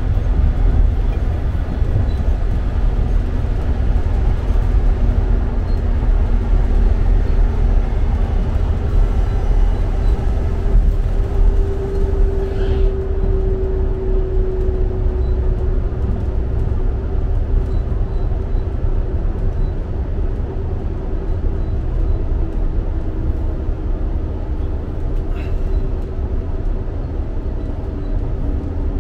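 Diesel multiple unit running at speed, heard from inside the carriage: a steady low rumble of wheels and engine, with a hum that swells around the middle and then sinks slightly in pitch. Two brief faint squeaks come in, about halfway through and near the end.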